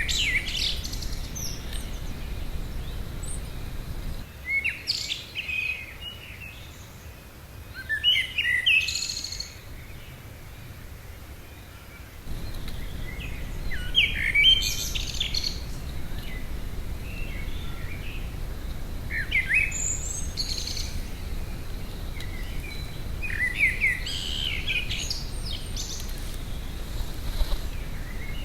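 Garden songbirds singing: short, varied phrases of high, quick notes come every few seconds over a low background rumble. The rumble drops away for a stretch between about four and twelve seconds in.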